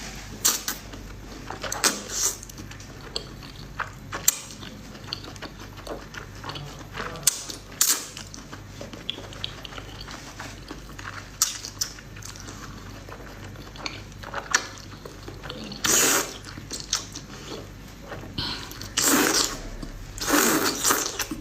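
Close-miked biting and chewing of crispy fried food: irregular sharp crunches throughout, with a few longer bursts of crunching in the last third.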